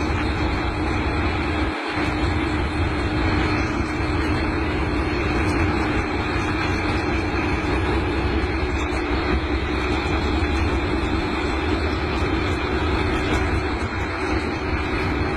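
Locomotive engine running with a steady, loud drone, broken briefly about two seconds in.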